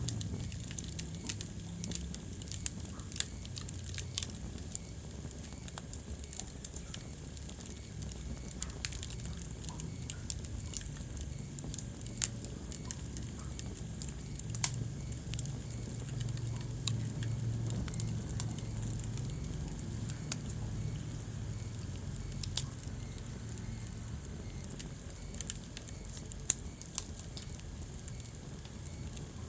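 Wood fire burning in a fireplace: steady crackling with irregular sharp pops, several of them loud, over a low rumble of flame.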